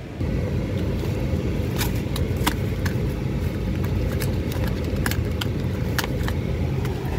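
Steady low rumble of a car engine idling, heard inside the cabin, with a scatter of small sharp clicks from cardboard and plastic packaging being handled.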